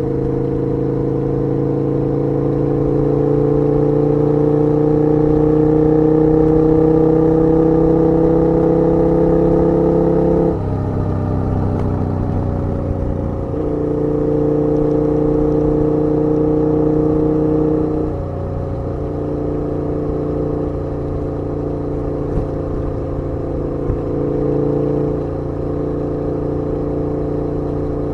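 KTM 1290 R's V-twin engine under way, its revs climbing slowly for about ten seconds, then dropping sharply. It steadies and drops again later, then runs at steadier, lower revs.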